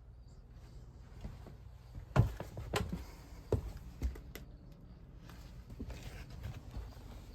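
A few scattered knocks and taps over a low steady hum, the loudest about two seconds in, with several more over the next two seconds.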